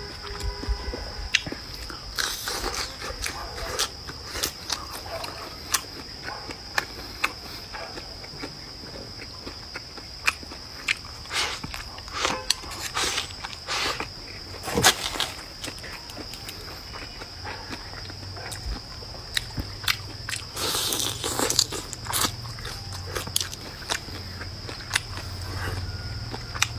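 Close-up eating sounds: biting, crunching and chewing food, with many short clicks scattered throughout, over a steady high-pitched insect drone.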